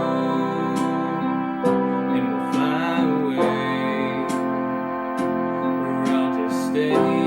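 Keyboard pop played live on a Yamaha electronic keyboard: sustained synth chords with a wavering melody line on top, over a steady beat of percussion hits.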